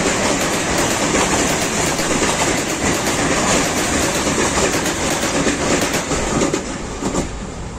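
An Ivolga EG2TV electric multiple unit passing close by on the next track: steady rolling noise with wheels clicking over rail joints. The noise drops off a little near the end.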